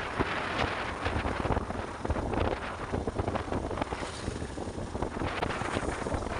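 Wind buffeting the microphone of a moving motorcycle, a ragged rushing noise with road and engine noise underneath.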